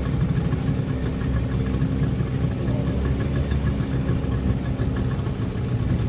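Tour boat's engine running steadily.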